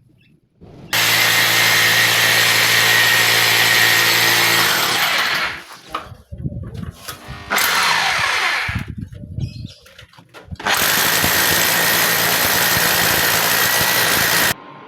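Electric power drill running at full speed in two long bursts of about four seconds each, with a rougher, uneven stretch between them; the second burst cuts off sharply near the end.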